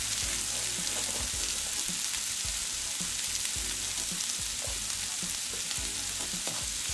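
Chopped onion and tomato sautéing in hot oil in a nonstick frying pan: a steady sizzling hiss with scattered small crackles and pops.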